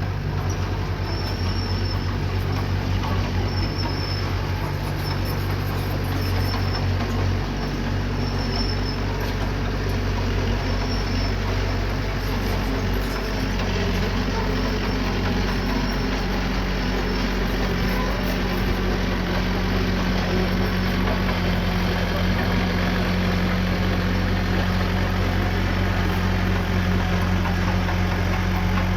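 Diesel engine of earthmoving machinery running steadily, with a faint high squeak repeating roughly every second in the first half.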